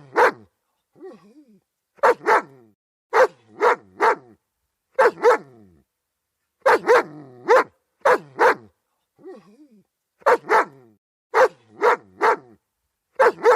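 German Shepherd barking in quick groups of two or three loud barks, a group about every second or so. Twice, a softer wavering sound comes between the groups.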